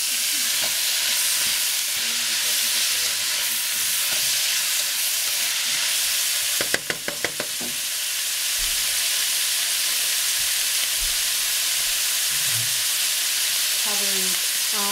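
Shredded cabbage sizzling steadily in hot oil in a nonstick pot as it is stir-fried with a wooden spatula. A quick run of clacks comes about seven seconds in.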